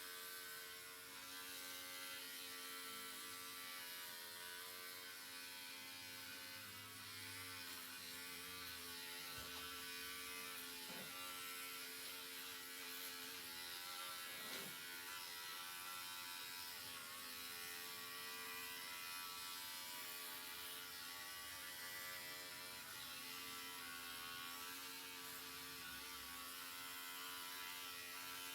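Electric hair clippers running with a steady buzz at an even pitch during a men's haircut.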